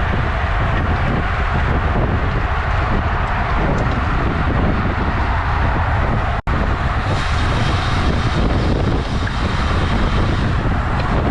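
Steady wind rumble on the microphone and road noise while riding a road bike. The sound cuts out for an instant about six seconds in.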